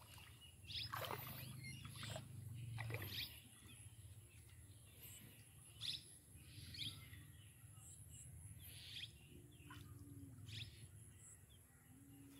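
Faint outdoor ambience: scattered short, high bird chirps over a low steady hum.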